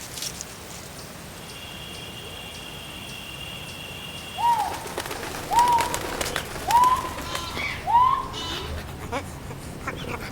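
Animal calls: a steady high whistle, then four short hoots that rise and fall, about a second apart.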